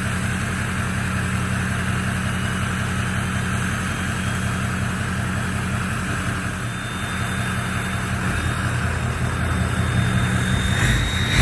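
A 2004 Ford F-250's 6.0 Powerstroke V8 turbo-diesel idling steadily, with a short louder burst near the end.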